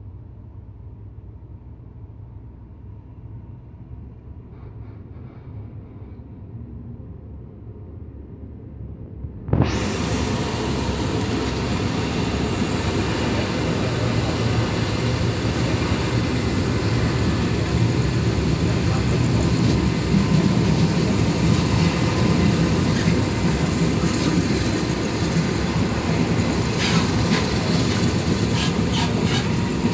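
Train running on the rails: a low rumble for about the first ten seconds, then abruptly much louder and steady. Wheels clatter over rail joints near the end.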